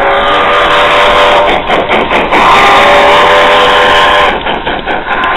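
Multi-note train horn chord sounding two long blasts, the second a little longer, with a gap of about a second between them.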